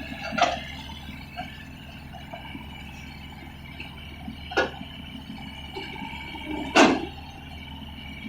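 Excavator running steadily with three sharp knocks, the loudest a little under seven seconds in.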